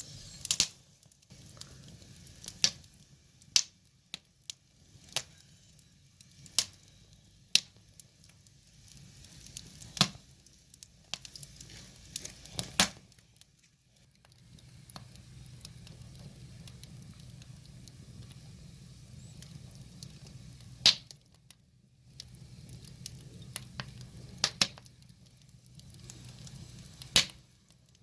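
Burning firewood crackling, with sharp pops at irregular intervals over a faint steady low rush of the flames.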